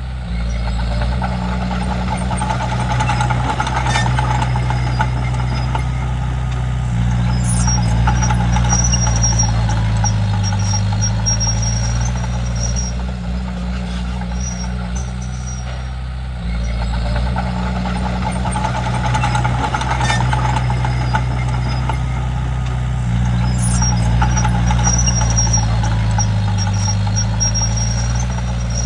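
Komatsu D31P bulldozer's diesel engine working, its note swelling under load and easing off in two similar cycles about sixteen seconds apart. A faint high whine comes in twice along with the heavier load.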